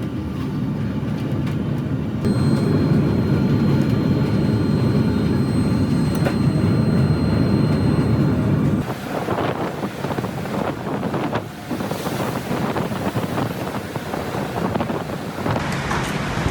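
Storm at sea aboard a ship: heavy wind buffeting the microphone, with a steady high-pitched tone sounding for several seconds. About nine seconds in, the sound shifts to waves crashing and water splashing against the ship in the wind.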